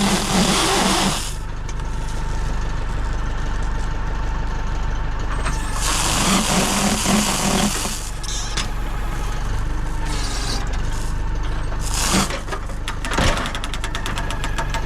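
Vehicle engine idling steadily, with two longer stretches of hiss, one at the start and one about six seconds in, and a few short sharp knocks near the end.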